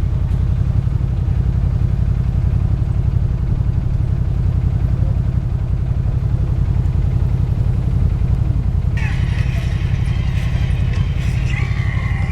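An engine running steadily at idle, a dense low rumble with even pulsing; about nine seconds in, some lighter higher-pitched clatter joins it.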